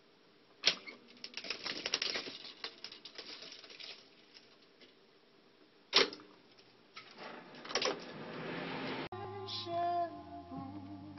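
Mechanical clicks and clatter from a Revox A77 reel-to-reel tape recorder's transport being operated. There is a sharp clunk about a second in, a rapid run of clicks over the next few seconds, and another clunk about six seconds in. Music starts playing about nine seconds in.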